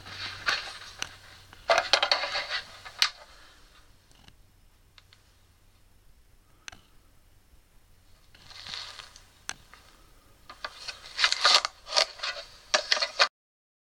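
Scraping, rustling and sharp clicks of things being handled, in two spells with a quiet stretch between; the sound cuts out abruptly shortly before the end.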